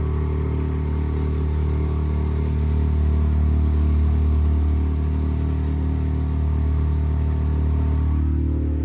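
Motorboat engine running steadily at a constant speed, with a slight change in its tone near the end.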